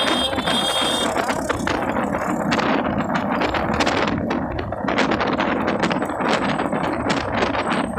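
Steady wind and road noise from riding, with frequent rattling clicks.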